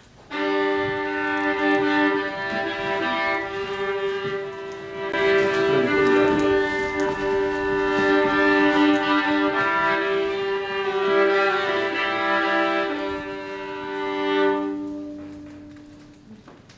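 Live music from a bowed string instrument holding two long notes together, with a third note joining for a while, fading away near the end.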